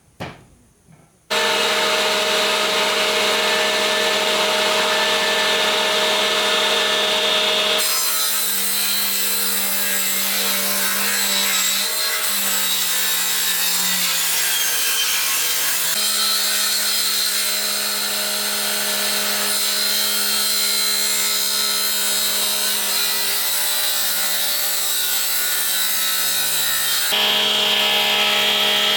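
A power tool running steadily while cutting wood, starting abruptly a little over a second in. Its tone shifts sharply a few times.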